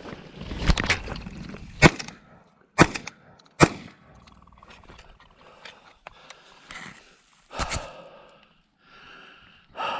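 A hunter's footsteps crunching over the ground, a few sharp steps about a second apart, with clothing rustle and heavy breathing.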